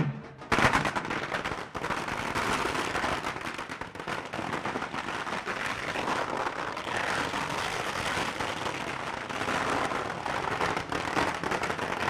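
A long string of firecrackers going off in a rapid, continuous crackle, starting suddenly about half a second in.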